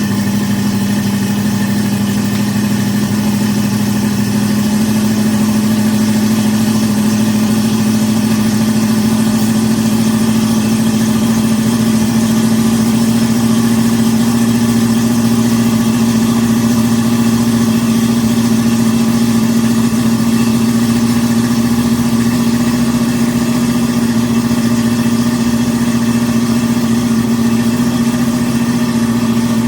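Hummer H2's V8 engine idling steadily, running to pressurize the air suspension and lift the truck on its new airbag, with a strong steady hum that rises slightly in pitch.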